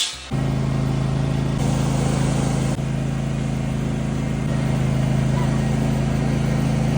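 An engine running steadily at one constant speed with a steady hum; it cuts in abruptly just after the start.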